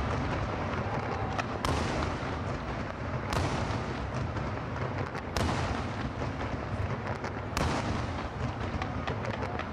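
Aerial firework shells bursting in four loud booms about two seconds apart, each echoing long. A steady low rumble and scattered small crackles run underneath.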